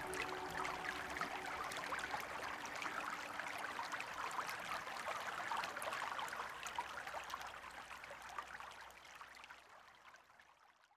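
Flowing river water babbling and trickling, a dense patter of small splashes, fading out over the last few seconds.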